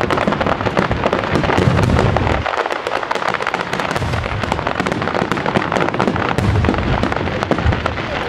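Starmine fireworks barrage: many aerial shells bursting in quick succession, repeated deep booms over continuous crackling of the bursting stars. The booms briefly let up about two and a half seconds in, while the crackling goes on.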